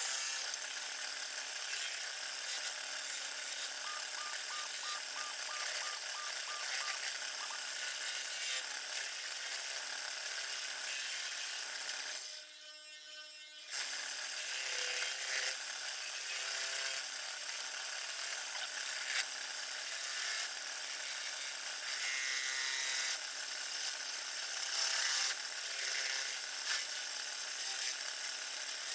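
Wood lathe running while a turning tool cuts a rotten alder blank: a steady hum under a continuous scraping hiss, which drops away briefly about twelve seconds in.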